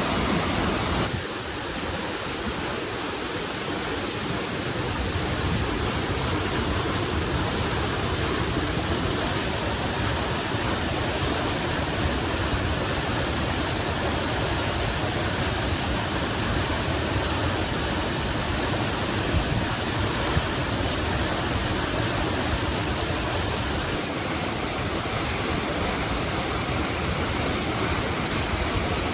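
Waterfall: a steady rush of falling water, dropping slightly in level about a second in.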